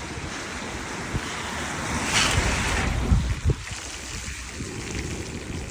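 Wind rumbling on a handheld phone microphone during a scooter ride in the rain, over the hiss of wet road. The hiss swells for about a second a little past two seconds in, with a couple of low knocks soon after.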